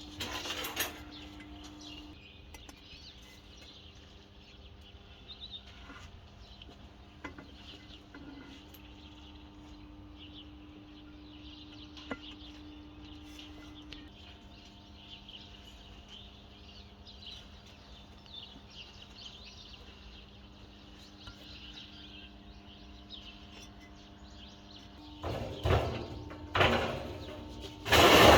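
Faint background of birds chirping over a steady low hum, with a few scattered clicks. Near the end come several louder, noisy bursts.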